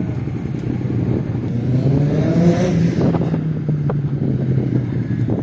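Aprilia RS 660's parallel-twin engine running on track, rising in revs about two seconds in, holding there, then easing off near the end.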